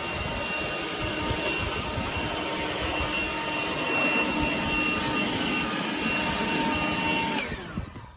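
Leaf blower blowing debris out of an overheated tractor's clogged radiator. It runs steadily with a whine, then is switched off about seven seconds in, its pitch falling as it spins down.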